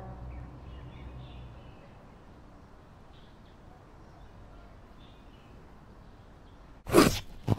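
Quiet outdoor ambience with a few faint bird chirps, after a steady pitched sound fades out in the first two seconds. Near the end comes a loud, brief knock against the microphone, then a smaller one.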